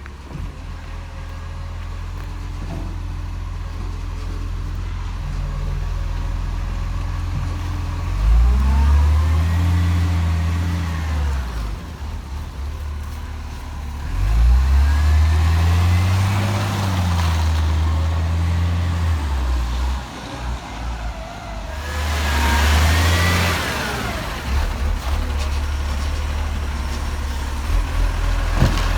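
Garbage truck's diesel engine running and revving up and back down three times, each rise lasting a few seconds. A hiss with a high whine comes in during the third rise.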